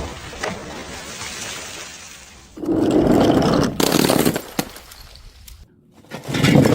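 Glass bottles shattering, with shards scattering: a sharp impact at the start, then louder crashes about three seconds in and again near the end.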